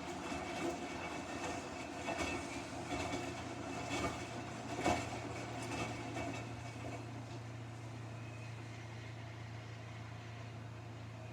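Front-loading Samsung washing machine running its warm-water wash cycle, the drum turning with a few knocks in the first half, then settling into a steady low hum.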